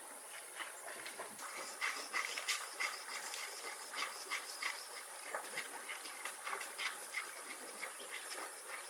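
Wood fire crackling, with irregular sharp pops over a steady faint hiss.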